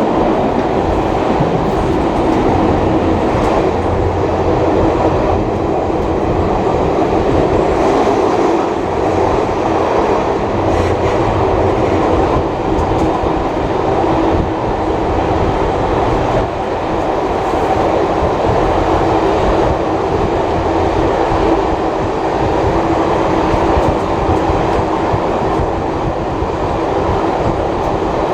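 Heritage passenger carriage running along the track behind a steam locomotive, heard from on board: a loud, steady rumble of wheels on rails.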